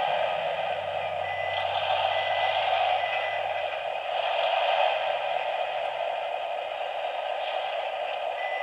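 Freight yard sound effects from an MTH model EMD F3A locomotive's onboard speaker: a steady radio-static hiss, narrow like a radio channel, with a low diesel idle hum underneath that fades out in the second half.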